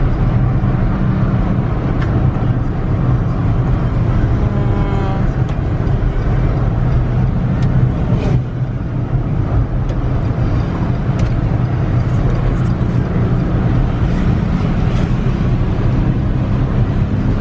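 Car engine hum and road noise, steady and loud, from inside a moving car.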